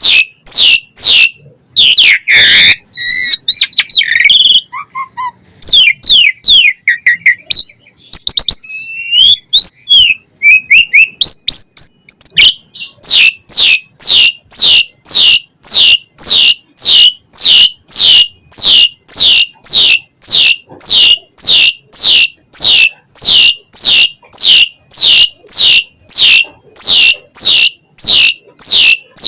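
Asian pied starling singing loudly, a varied mix of whistles and chattering notes. About twelve seconds in, it settles into a long run of rapidly repeated, falling whistled notes.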